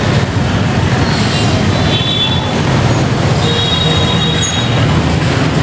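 Train rolling close past along a narrow street track, a steady rumble of the carriages with two brief high-pitched squeals from the wheels on the rails.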